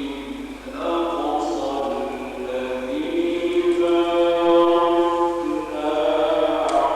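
A man's solo voice chanting Quran recitation in the melodic mujawwad style, drawing out long held notes that slowly rise and fall. There is a short breath-pause just before a second in.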